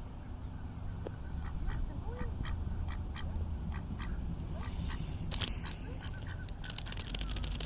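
Waterfowl calling: a run of short, quick calls at about three a second, over a steady low rumble.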